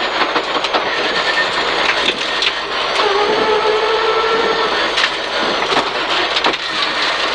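Peugeot 306 rally car heard from inside the cockpit, its engine working hard with the pitch shifting as it slows for a hairpin and picks up again. Road noise fills the cabin, with scattered sharp knocks through the car.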